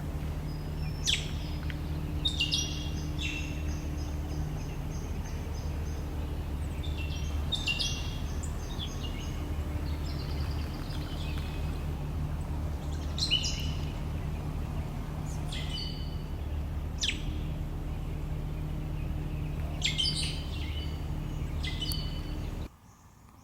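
Wild birds calling: short, sharp high calls and quick runs of repeated high notes every few seconds, over a steady low hum. The sound cuts off abruptly near the end.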